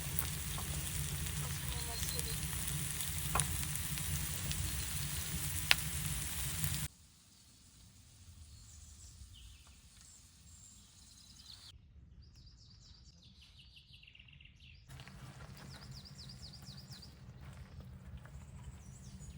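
Food sizzling hard in a hot pan, a steady sizzle that cuts off suddenly about seven seconds in. Quiet outdoor air follows, with birds chirping now and then.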